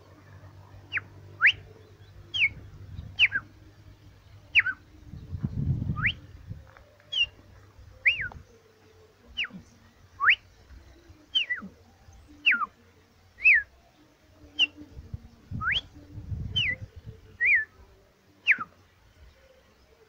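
A bird repeating a short clear whistled note about once a second, each note a quick slide in pitch, mostly downward, some upward. A low rumble comes twice, about a quarter and about three quarters of the way through.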